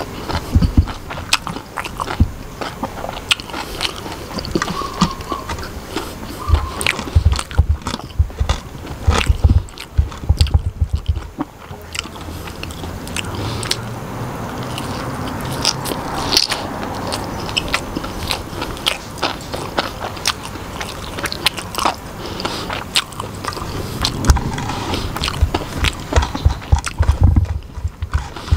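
A person biting and chewing crispy batter-fried mushrooms, with many short sharp crunches throughout.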